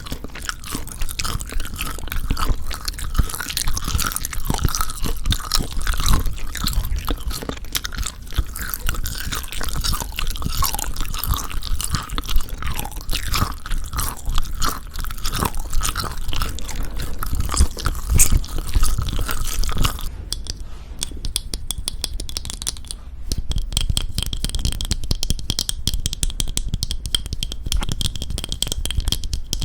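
Close-miked chewing of Jeju black pork jerky, with dense irregular crackly mouth sounds. About two-thirds of the way through, the sound turns thinner and sharper: a fast run of crisp clicks.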